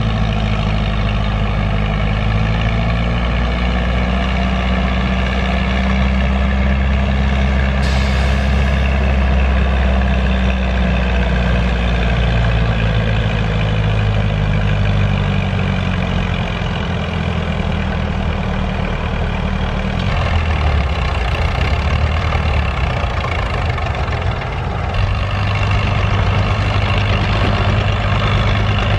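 Farm tractor engine running loud and steady at a tractor pull. Its pitch shifts and drops around the middle, as the engine works under the sled's load.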